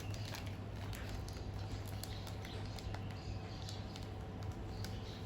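Plastic sandwich bag being handled and sealed: irregular light crinkles and small clicks, over a steady low hum.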